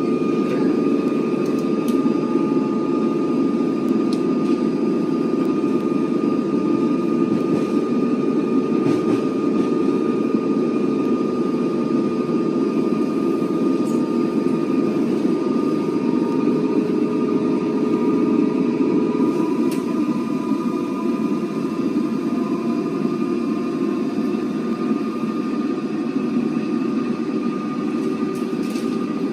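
Melbourne suburban electric train running, heard from inside the carriage: a steady rumble with a constant high hum over it.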